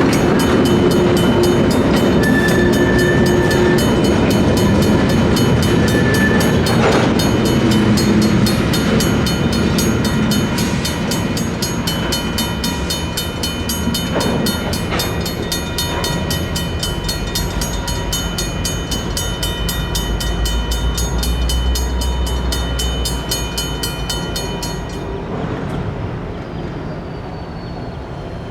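Freight train passing slowly behind its locomotives while a Safetran mechanical crossing bell rings rapidly and evenly. The bell stops suddenly near the end, leaving the train's rumble.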